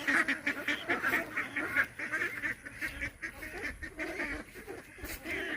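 A group of domestic ducks quacking rapidly and continuously, the calls crowding together and louder over the first two seconds, then fading. It is the excited calling of ducks that have been spooked.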